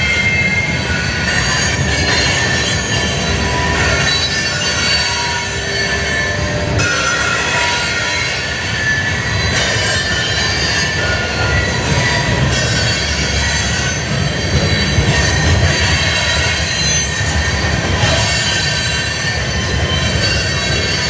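Kansas City Southern freight train's cars rolling past, a steady heavy rumble with high-pitched squealing from the wheels on the rails throughout.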